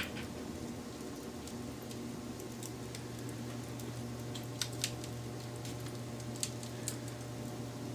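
Wood fire crackling: a steady low rush of burning with scattered sharp pops, the loudest a quick pair a little before the five-second mark.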